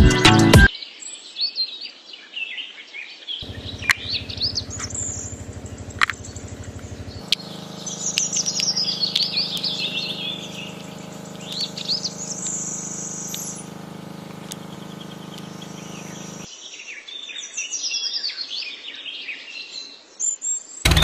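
Many small birds chirping and calling. From about three seconds in until about sixteen seconds in, a steady low hum runs underneath them.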